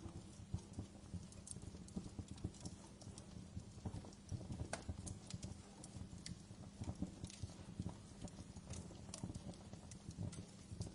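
Wood fire burning in a fireplace, crackling with irregular pops and snaps over a steady low hum.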